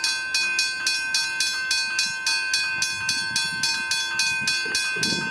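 Westinghouse hybrid level-crossing bell ringing with rapid, evenly spaced strikes, about three to four a second.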